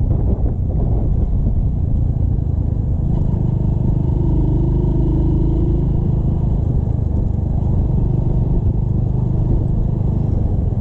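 Motorcycle running steadily at road speed, a continuous low rumble with no breaks.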